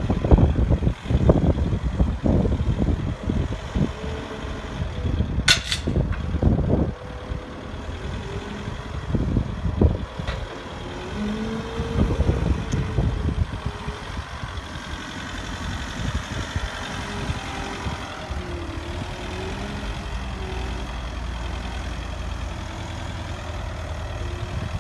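Truck engine idling, with irregular low knocks and thumps through the first half, a brief sharp hiss about five and a half seconds in, and a steadier low running sound in the second half.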